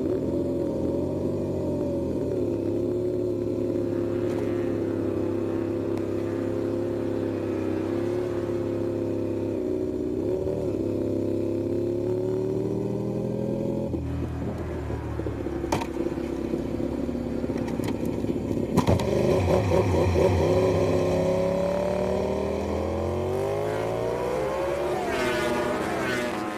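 MotoGP racing motorcycle engine running hard at high revs. Its pitch holds steady for long stretches, shifts as the revs change, and rises in a run of upward sweeps near the end.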